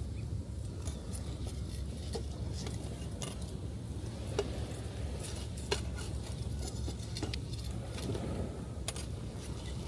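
Wood fire crackling, with scattered small ticks and a few sharper pops, over a steady low rumble of surf on the beach.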